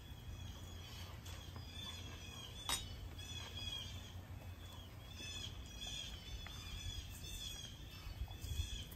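Small birds chirping in short repeated phrases over a low steady hum, with one sharp click a little under three seconds in.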